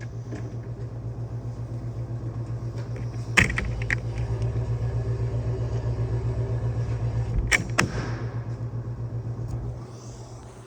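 A motor running with a steady low hum and a fast, even pulse, stopping shortly before the end, with two sharp clicks during it.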